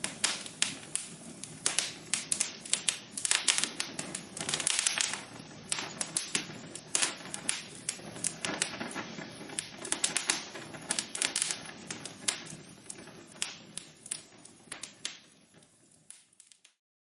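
Wood logs burning in a fireplace, crackling and popping with dense, irregular sharp snaps over a soft hiss. The crackling thins and fades out over the last few seconds.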